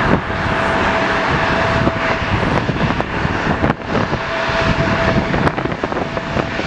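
Jet airliner engine noise mixed with strong wind buffeting the microphone, giving an irregular low rumble. A faint steady whine comes and goes, along with a few sharp clicks.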